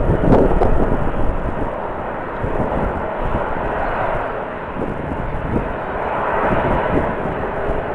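Jet airliner engines running, a steady rushing noise that stays loud throughout, with a few gusty surges near the start.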